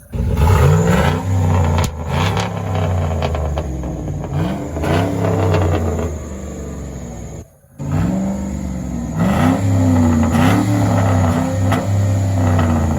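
Chevy Silverado's 4.8 LS V8 through a straight-piped exhaust with new catalytic converters, revved in several quick blips that rise and fall back to idle.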